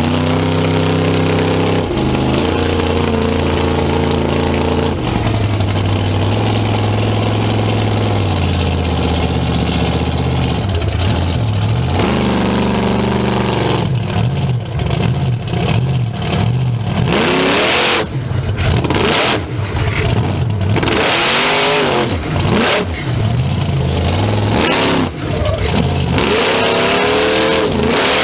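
Monster truck engine running loudly, holding a steady speed for the first half, then revving up and down again and again.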